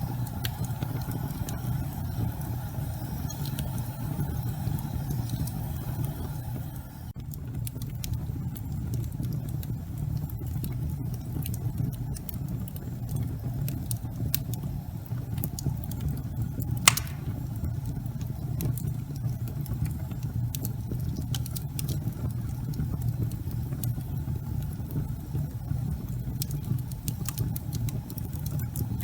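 Wood fire burning in a fireplace: a steady low rumble with scattered small crackles and one sharp, loud pop about 17 seconds in.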